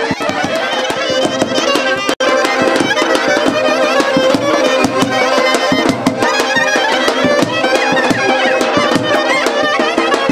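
Traditional folk dance music: a quick, ornamented reed or fiddle-like melody over a steady beat, with a momentary dropout about two seconds in.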